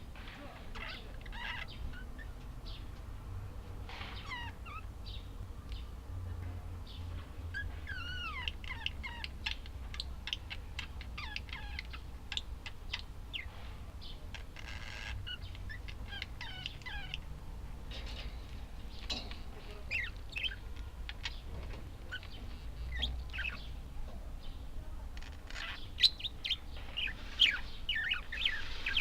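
Budgerigars chirping and warbling: a stream of short high chirps and twittering pitch glides that grows busier and louder in the last few seconds, over a steady low hum.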